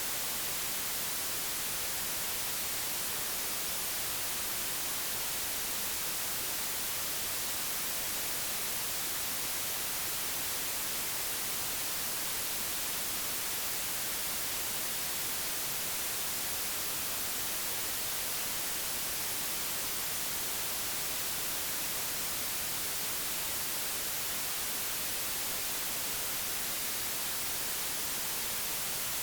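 Steady, unchanging digitally generated white noise: an even hiss with no events or changes.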